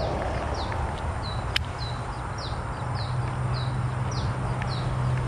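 A bird calling over and over with short, high, falling whistled notes, about two a second. Under it runs a low steady hum, and there is a single sharp click about one and a half seconds in.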